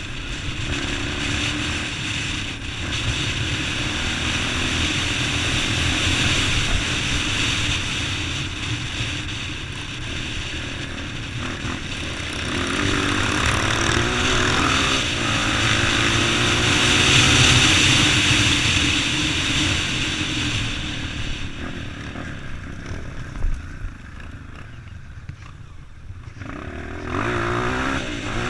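Motorcycle engine running under way, its pitch rising and falling with the throttle over a steady rush of noise. It drops quieter for a few seconds near the end, then picks up again.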